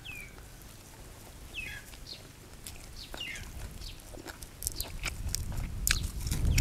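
A bird calling with short falling chirps, three times about a second and a half apart; from about two-thirds through, crisp clicks and crunching close by as fresh leaves are torn and a bite of sticky rice and fish laab is taken and chewed.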